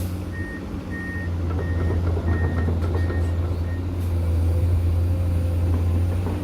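Heavy diesel construction vehicle running, its reversing alarm beeping about twice a second for three and a half seconds before it stops.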